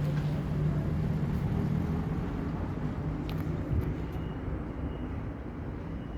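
Low engine hum of a motor vehicle, gradually fading, over steady outdoor background noise, with one short knock partway through.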